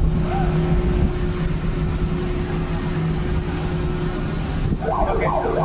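Steady machinery hum over a low rumble of wind and open-air noise. Voices are heard briefly about five seconds in.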